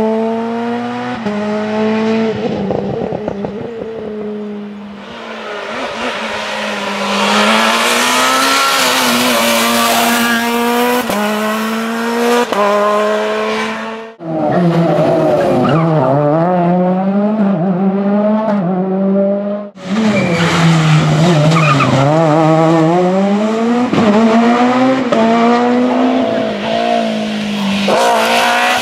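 Rally car engines at full throttle, the pitch climbing and dropping again and again through gear changes. Two abrupt cuts, about 14 and 20 seconds in, join separate passes.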